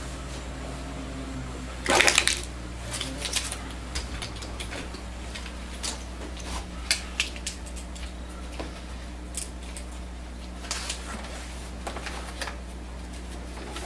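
Handling noise from a camera being repositioned: a loud rustle and clatter about two seconds in, then scattered light clicks and knocks, over a steady low hum.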